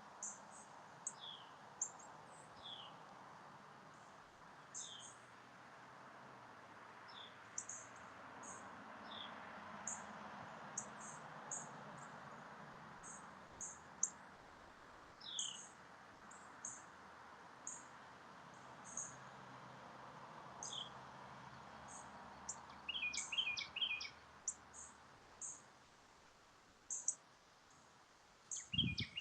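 Small birds chirping: scattered short high chirps and downward-sliding calls, with a brief quick trill about two-thirds of the way through, over a soft steady hiss.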